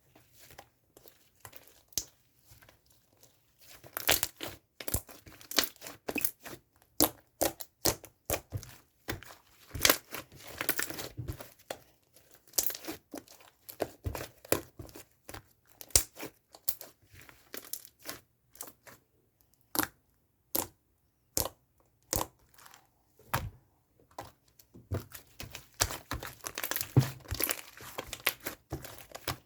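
Hands working a crinkly material close to the microphone, making irregular crackling and crinkling clicks that come in dense runs and then thin out.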